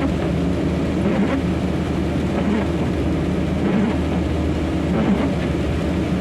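Steady engine and road noise of a delivery truck heard from inside the cab while driving.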